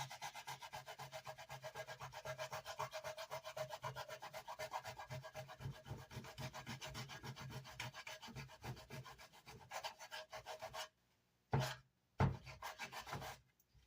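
Hand sanding the edges of a wooden amplifier speaker baffle, quick even back-and-forth strokes to smooth them. The strokes stop about eleven seconds in, followed by two brief rubs.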